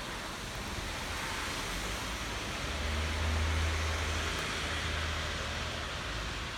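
Steady rain falling, an even hiss. From about three seconds in, a low rumble swells underneath for a few seconds and is the loudest part.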